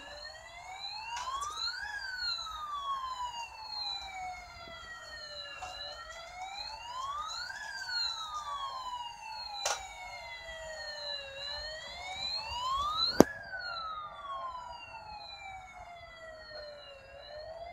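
Electronic siren of a battery-powered bump-and-go toy fire truck wailing, slowly rising and falling about every six seconds. Two sharp knocks cut through it, the louder one about thirteen seconds in.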